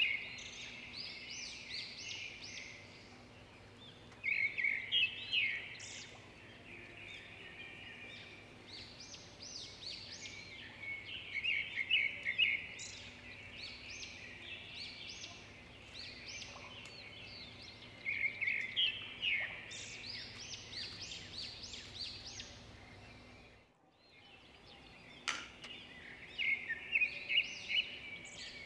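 Birds chirping in the background: bouts of quick, high chirps every few seconds, over a faint steady hum.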